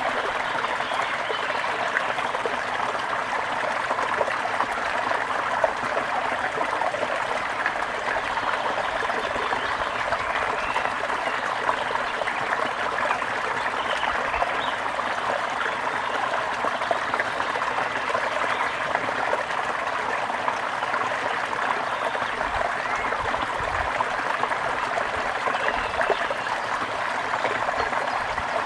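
A small stream of water trickling and babbling steadily, with a few faint bird chirps over it now and then.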